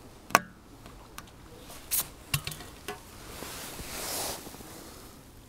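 Fishing tackle being handled while a hooked fish is played in: one sharp knock about a third of a second in, a few lighter clicks about two seconds in, and a soft rush of noise around four seconds in.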